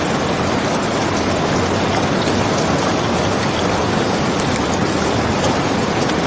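Steady rain falling, an even wash of noise, with a few faint crackles from a wood fire in a fireplace.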